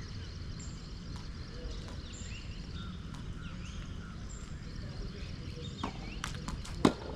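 A tennis ball bouncing and being struck a few times in quick succession near the end, the last impact sharp and much the loudest, over steady low background noise.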